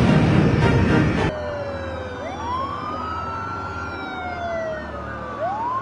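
A loud dense noise stops abruptly a little over a second in, giving way to several emergency vehicle sirens wailing and overlapping, with two wails rising and levelling off while others slowly fall in pitch.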